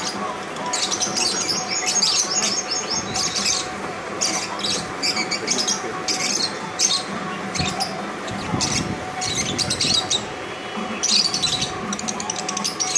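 Birds chirping in quick, repeated bursts of high-pitched calls.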